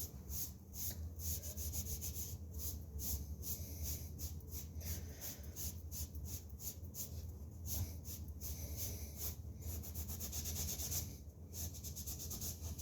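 Repeated back-and-forth hand rubbing strokes over a dried joint-compound patch on drywall, smoothing it down by hand instead of with a sanding block. There is a brief pause about 11 seconds in.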